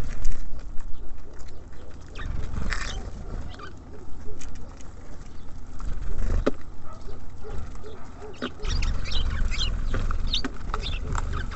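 Small songbirds, tits and sparrows, giving short scattered chirps and calls, over a low rumble that grows stronger near the end.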